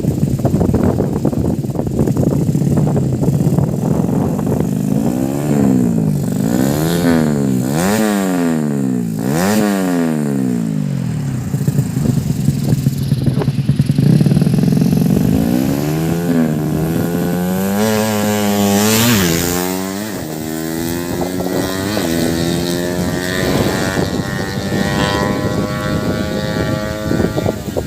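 115cc underbone drag-bike engine being revved in a string of quick blips, its pitch shooting up and dropping back again and again. Later it climbs steeply and then keeps rising more slowly in steps at high revs.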